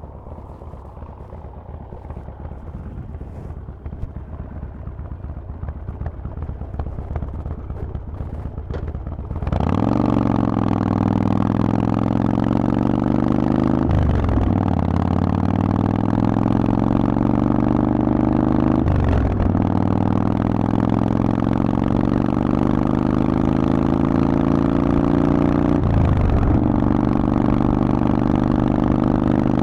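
Harley-Davidson Forty-Eight's 1200 cc air-cooled V-twin through a Vance & Hines exhaust, heard while riding. For the first nine seconds or so it is quieter and building. Then it turns suddenly loud under throttle, with a brief break in the note at each of three gear changes.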